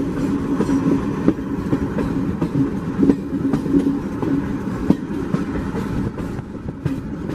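Train running through forest, heard from on board: a steady rumble of wheels on the rails, with scattered short clicks and knocks.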